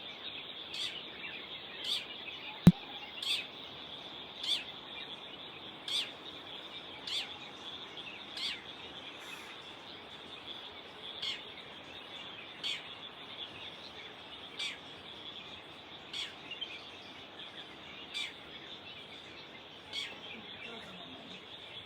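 Dawn chorus of many kinds of birds singing together in a continuous high chatter, with one bird repeating a short, sharp call about every second and a half. A single sharp click sounds about three seconds in.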